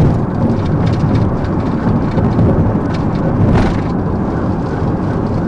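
Steady, loud rumble of road and engine noise inside a moving police patrol car.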